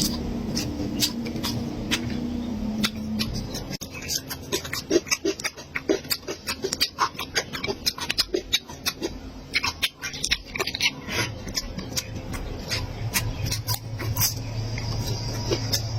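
Close-miked chewing and mouth sounds from eating: a quick, irregular run of small sharp clicks.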